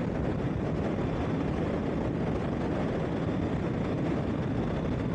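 Steady wind rush and running noise of a Honda CBR650R inline-four motorcycle being ridden at an even speed.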